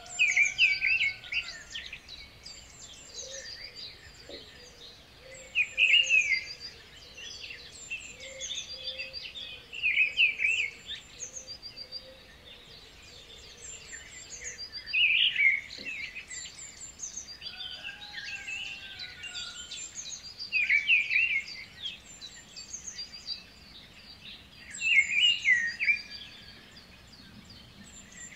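Birdsong: several birds chirping and trilling, with a louder burst of song every five seconds or so.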